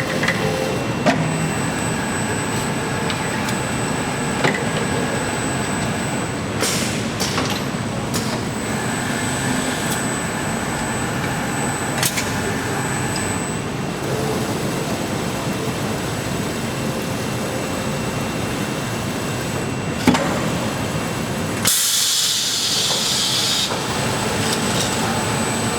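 Factory production machinery running steadily, with scattered sharp clicks and a short burst of hissing air a little before the end.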